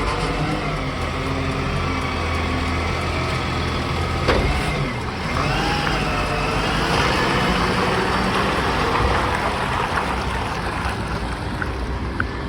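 Garbage truck engine running steadily, with one sharp bang about four seconds in and a wavering whine for a couple of seconds after it.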